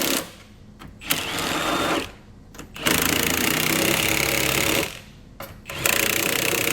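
Pneumatic power tool running in repeated bursts of one to two seconds, with short pauses between them, as a car is clamped and rigged on a frame-straightening machine.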